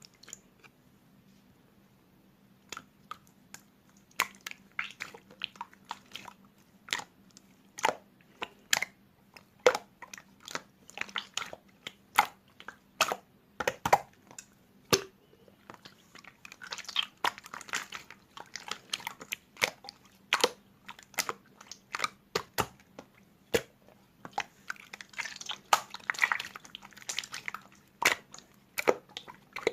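Clear slime being squeezed and pressed by hand, giving sharp wet clicks and pops. Denser runs of crackling come about halfway through and again near the end.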